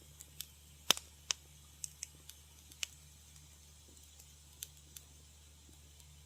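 Wood fire crackling in a fireplace: sparse, irregular sharp pops and snaps, the loudest about a second in, with a few quieter ticks between.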